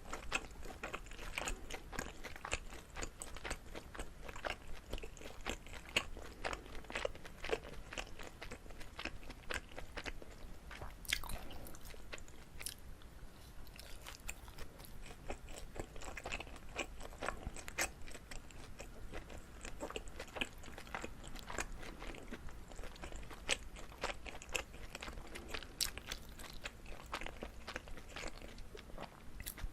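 Chewing of a chewy Korean rice cake filled with gondre greens: many small sticky mouth clicks and smacks, with an occasional bite.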